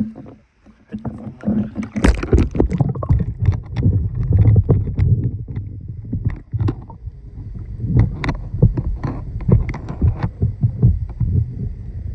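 Small boat being paddled: water splashing and irregular knocking against the hull, with low rumbling.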